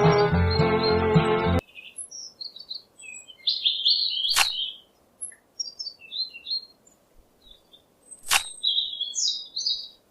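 Background music that cuts off suddenly about a second and a half in, followed by small birds chirping in short, high, scattered phrases, with two sharp clicks, one near the middle and one near the end.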